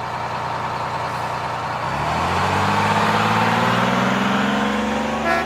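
Car engine running, then accelerating, its pitch rising steadily from about two seconds in over a rush of road noise. A few short beeps come near the end.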